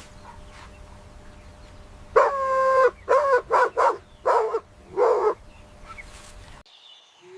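An animal calling: one long call of steady pitch, then about five short calls in quick succession.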